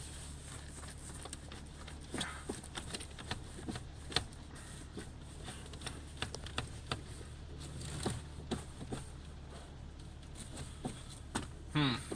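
Jeep Cherokee engine idling as a steady low hum inside the cabin, with scattered clicks and knocks as the four-wheel-drive lever is tried and refuses to engage; the driver takes this for seized shift linkage.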